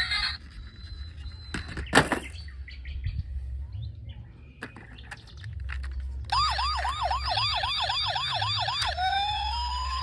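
Toy emergency vehicle's electronic siren: a fast yelp of quick rising sweeps, about four a second, starting about six seconds in, switching to a slow rising-and-falling wail near the end. Before it, a few clicks and knocks, the loudest about two seconds in.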